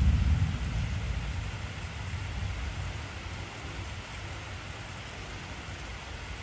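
Heavy rain falling in a steady hiss, with a deep rumble of thunder that starts suddenly at the outset and fades over about three seconds into a low continuing rumble.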